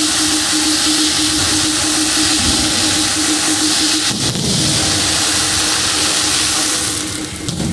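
Fireworks hissing and crackling in one dense, continuous wash, easing off about seven seconds in. A steady low tone pulses on and off underneath.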